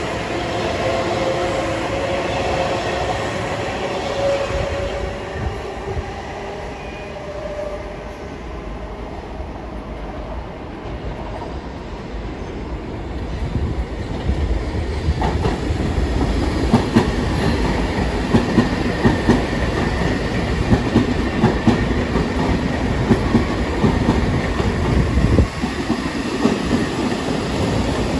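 Long Island Rail Road trains: a falling whine fades away over the first few seconds, then from about fifteen seconds in a train passes close, its wheels clacking repeatedly over the rail joints.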